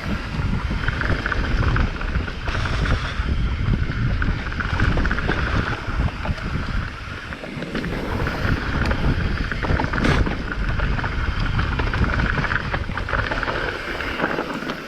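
Wind buffeting a helmet or action-camera microphone over the steady rumble and rattle of a mountain bike riding fast down a rough trail, with a sharp knock about ten seconds in.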